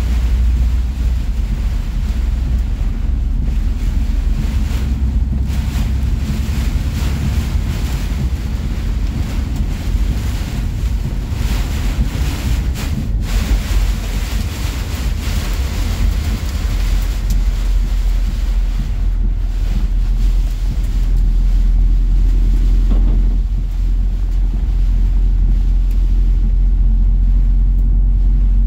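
Heavy rain and high wind beating on a semi-truck's cab at highway speed, an even rushing noise over the steady low drone of the truck's engine and tyres. The low rumble grows a little louder about two-thirds of the way through.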